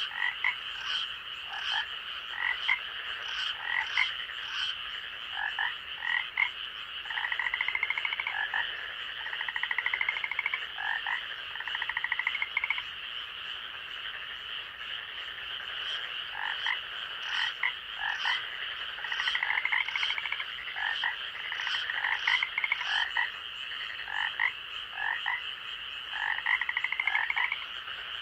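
Night chorus of frogs calling: many short, rising calls and some longer trills of a second or two, over a steady high-pitched drone.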